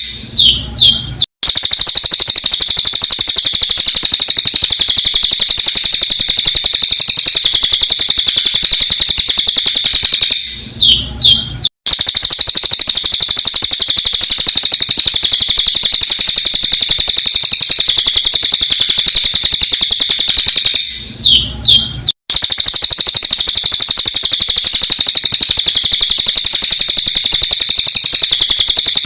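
Cililin's song, sped up, as a dense, sharp, continuous high-pitched trill. It repeats as a loop about every ten seconds. Each repeat is broken by a short pause holding a few separate chirps and a dull low thump, then cuts straight back into the trill.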